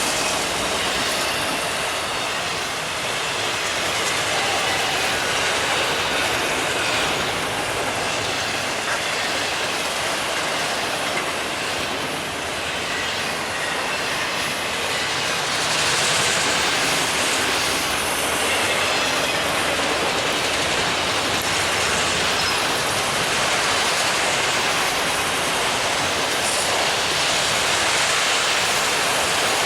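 Freight train passing at speed, a steady rush of rail cars rolling over the track.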